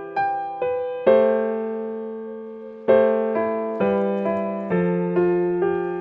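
Slow, gentle solo piano music: single notes and sustained chords struck every half second or so, each ringing and fading.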